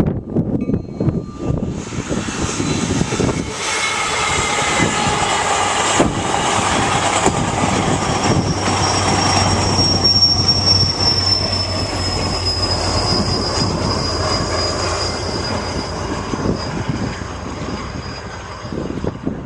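A train passing close by, its wheels rumbling and clattering on the rails. From about halfway through, a thin high wheel squeal joins in and slowly sinks in pitch until the train has gone by.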